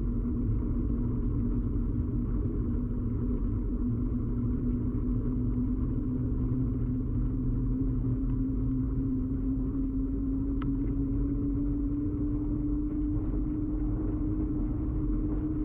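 Bicycle ride noise picked up through the frame by a bike-mounted camera: a steady low rumble of tyres and frame vibration, with a humming tone that slowly rises in pitch. A single sharp tick about ten and a half seconds in.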